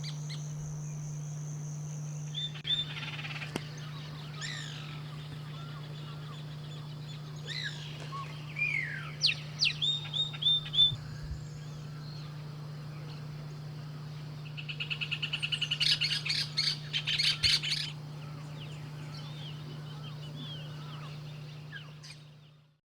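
Wild birds calling in short bursts of chirps and down-slurred whistles, with a fast rattling series of notes about two-thirds of the way through, over a steady low hum.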